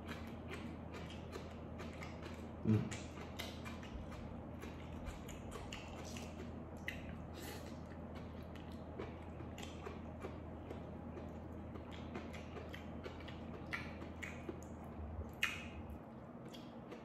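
Close-up chewing of raw purple cabbage with rice, a steady run of crisp crunches and mouth clicks. A brief vocal murmur comes about three seconds in.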